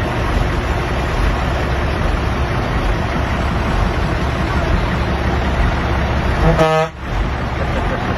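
Old truck running with a steady low engine rumble. About six and a half seconds in, a short horn toot, then the sound drops out for a moment.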